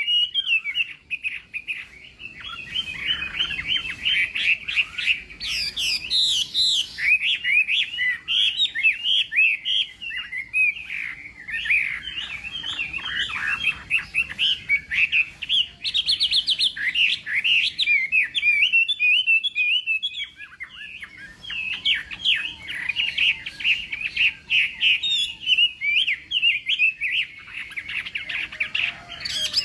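Chinese hwamei (melodious laughingthrush) singing a long, rapid, varied run of loud whistled phrases, with short breaks about a second in and again around two-thirds of the way through.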